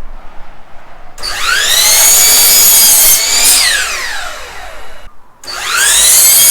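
Electric power saw cutting cedar boards twice. Each time the motor whines up to speed about a second in, runs steady through the cut, then winds down with a falling whine once the trigger is let go. The second start comes just after the first run dies away.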